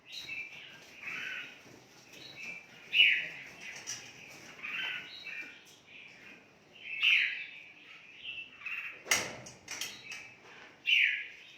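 Several caged red-whiskered bulbuls chirping and calling back and forth in short bright phrases, with one sharp knock about nine seconds in.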